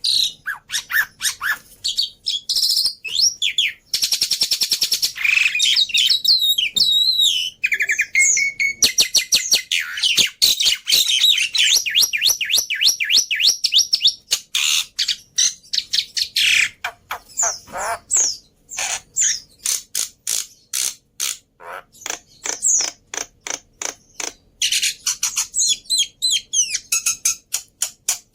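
Black-winged myna (jalak putih) singing a varied, mimic-filled song: a busy mix of whistles, squawks and fast trills, with long runs of rapid sharp repeated notes in the second half.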